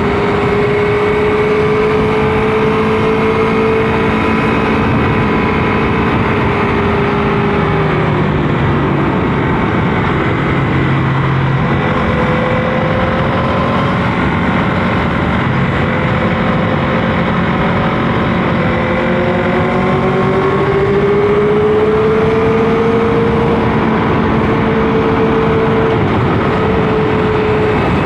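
Motorcycle engine running under way with heavy wind rush, its pitch slowly rising, holding and dropping back with the throttle and gear changes.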